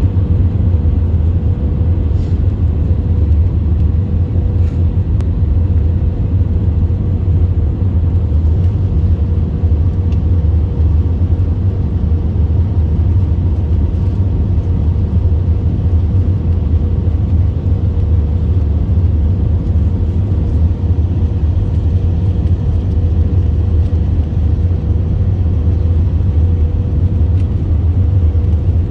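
Steady low roar of engines and rushing air heard inside an airliner cabin in flight, with a faint steady hum held underneath.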